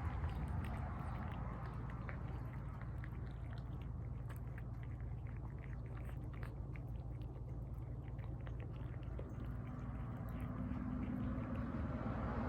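Cats chewing and lapping wet tuna, a run of quick, small, wet clicks, over a steady low hum.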